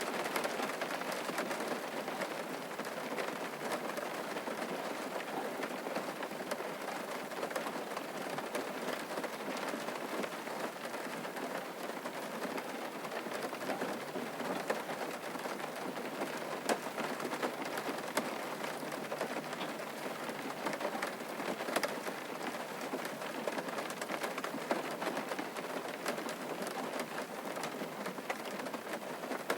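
Steady rain falling on a surface, an even patter with many small drop ticks throughout.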